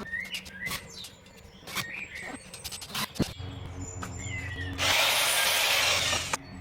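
Birds chirping with scattered knocks and clicks of work, then a motor hum starts and, about five seconds in, a loud rushing power-tool noise lasts about a second and a half.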